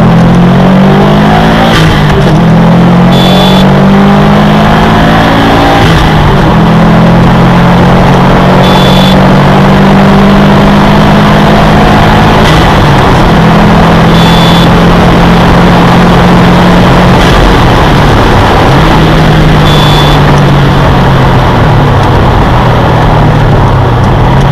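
2015 Subaru WRX STI's turbocharged flat-four engine heard from inside the cabin, driven hard around the circuit. Its note rises and falls as it accelerates, shifts and lifts for corners, over loud road and wind noise. A short electronic beep sounds about every five to six seconds.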